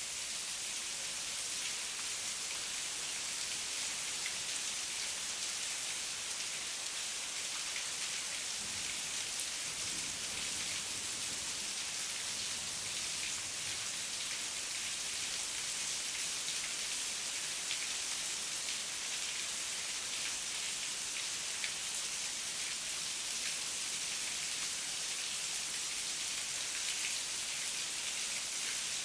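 Heavy rain falling steadily: a dense, even hiss with many fine drop patters mixed in.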